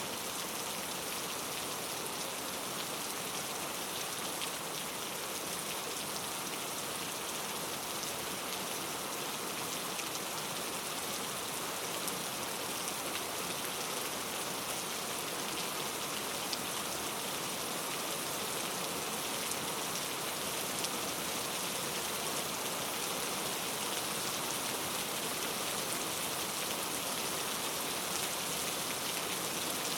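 Steady rain falling: a dense, even hiss with scattered faint drop ticks and no change in strength.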